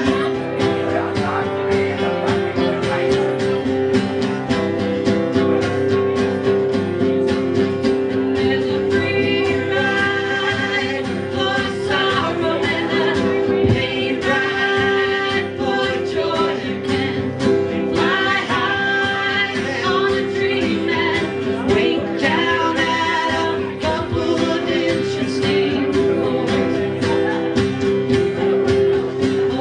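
A band playing a song live, with guitar and singing over a steady held tone.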